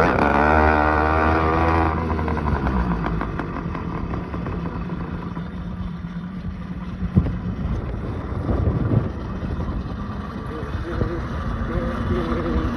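Motorcycle engine running steadily, with wind and road noise.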